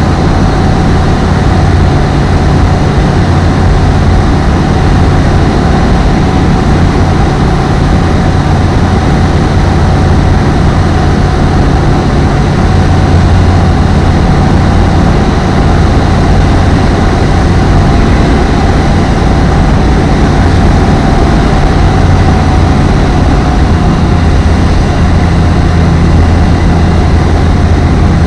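Apollo Fox ultralight aircraft's engine and propeller running steadily, a loud constant low drone with a steady whine above it.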